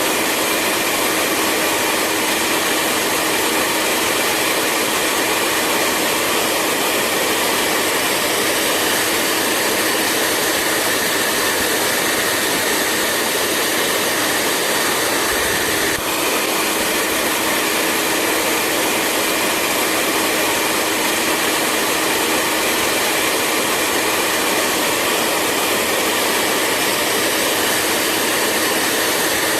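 Hair dryer running steadily: a continuous rush of blown air with a steady motor hum under it. About halfway through there is a brief dip where the sound skips and carries on.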